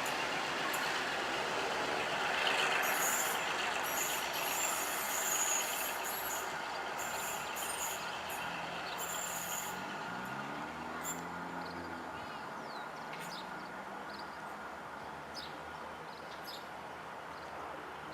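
G22 diesel locomotive running light, its engine and running sound fading as it moves away, with several short high-pitched noise bursts in the first half.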